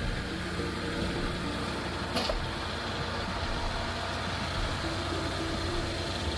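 Firewood processor running: a steady engine drone with one sharp clack about two seconds in.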